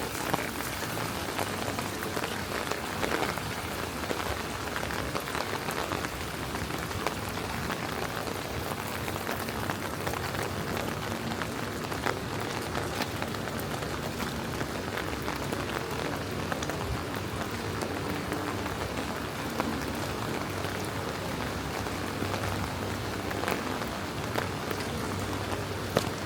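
Steady rain falling on city streets, with many sharp drop ticks scattered through it and a faint low hum underneath.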